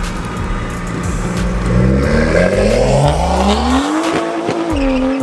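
A car engine revving: a low rumble that climbs steeply in pitch over about two seconds, then holds at high revs near the end.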